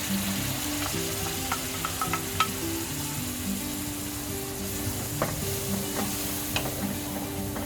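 Ground onion, ginger and garlic paste sizzling in hot oil in a pan while it is stirred and sautéed, with a few sharp clicks of the spatula against the pan.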